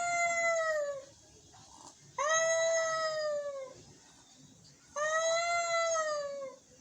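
An angry cat meowing in long, drawn-out wails: one call trails off about a second in, then two more of about a second and a half each, gaps between them. Each call holds its pitch and then slides down at the end.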